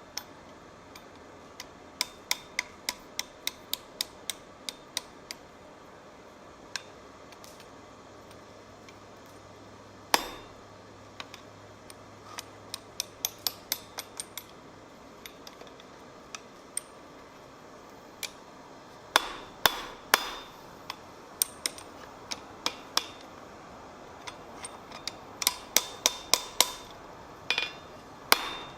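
Blacksmith's hand hammer striking steel on an anvil with a ringing sound, in runs of quick blows about three a second, broken by pauses of a few seconds.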